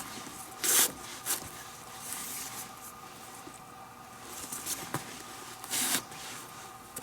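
Leather lace being drawn through the lacing holes of a Rawlings Gamer baseball glove: a rubbing, zipping hiss. Two louder pulls, one just under a second in and one near the end, with quieter rubs between.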